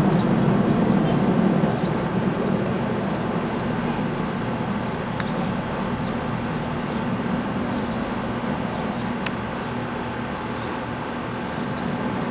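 Black Hawk military helicopters flying overhead: a steady rumble of rotor and turbine noise that gets a little quieter about two seconds in.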